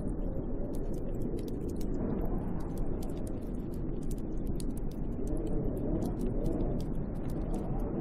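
Snowstorm wind blowing around a hut, a deep steady rush that swells and eases, with many small irregular ticks over it.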